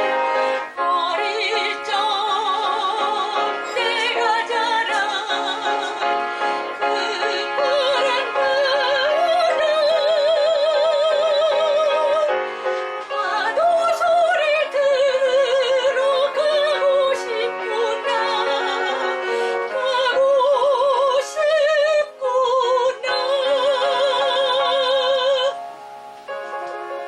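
Soprano singing a Korean art song in operatic style with wide vibrato, accompanied by piano. The voice stops near the end, leaving the piano playing on alone.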